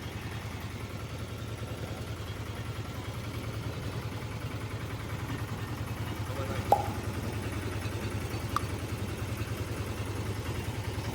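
A steady, low engine hum with a fast even pulse, with two short sharp clicks near the middle.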